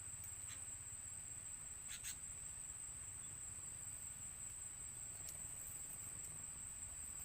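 Steady high-pitched insect trill, a single unbroken tone, with a few short sharp clicks: one about two seconds in and another past the middle.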